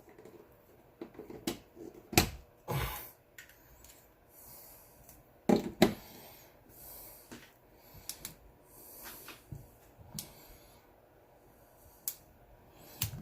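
Clicks, taps and knocks from a small plastic portable humidifier being handled, with a brief rustle. The loudest knocks come about two seconds in and again about five and a half seconds in.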